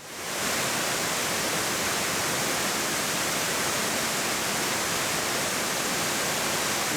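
Steady rushing of water pouring over a river cascade, a constant even wash of sound that comes up quickly in the first half second.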